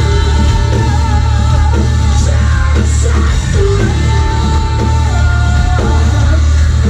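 Ragga-metal band playing live at full volume: distorted guitars and heavy bass and drums, with a singer's voice over them.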